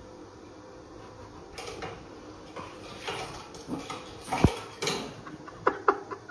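Rustling and clattering with several sharp knocks, the loudest about four and a half seconds in.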